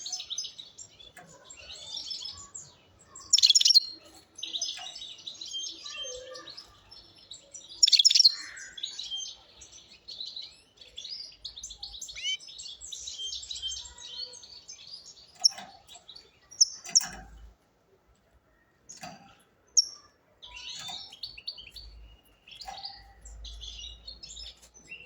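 European goldfinch singing: fast, twittering phrases with buzzy and tinkling notes, loudest bursts a few seconds in, broken by a brief pause past the middle. A few sharp clicks near the pause.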